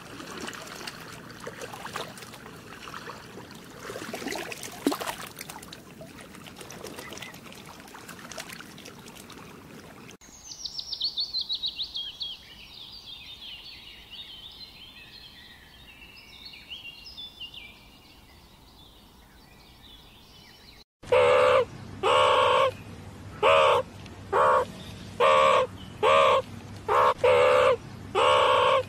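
Bird calls: a fast trill of notes that falls in pitch, then a series of loud, harsh calls repeated about once a second. Before the trill there is a stretch of noisy rustling with scattered clicks.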